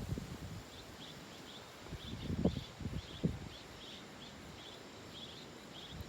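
Barn swallows giving short, high chirping calls in quick succession, about two or three a second, over low wind rumble with a few gusts buffeting the microphone.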